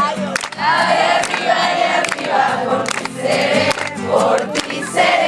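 A group of people singing together, several voices overlapping, with short sharp clicks scattered through it.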